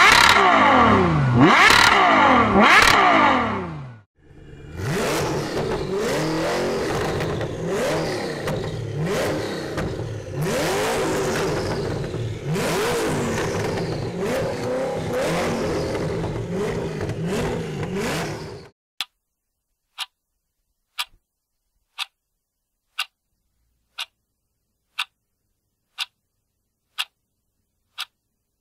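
A Ferrari 812 Superfast's V12 revving in quick rising and falling blips, cut off about four seconds in. Then a Koenigsegg One:1's twin-turbo V8 revs up and down over and over for about fifteen seconds. After that a countdown clock ticks once a second, ten times.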